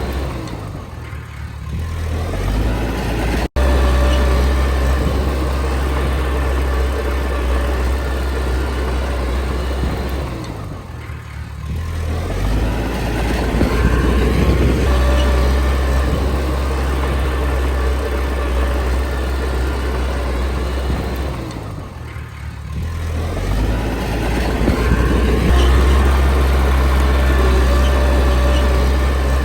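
Komatsu D20P bulldozer's diesel engine running steadily under load. Its note dips and picks back up three times, about every eleven seconds. The sound cuts out for an instant a few seconds in.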